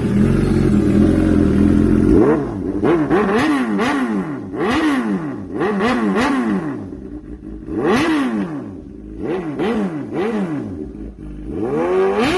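Suzuki GSX-S750 inline-four engine breathing through newly fitted custom headers and midpipe: it idles for about two seconds, then is blipped again and again, each rev rising and falling quickly, with short pauses between the groups of blips.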